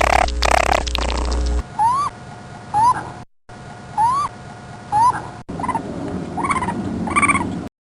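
Short animal calls, each rising then falling in pitch, come in pairs about a second apart, with a quicker run of rising calls near the end. They follow a loud, noisy sound that cuts off about one and a half seconds in.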